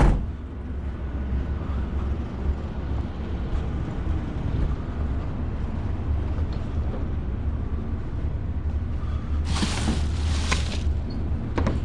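Van engine and road noise heard from inside the cab, a steady low rumble. A thump at the very start, and a brief rush of hiss about ten seconds in.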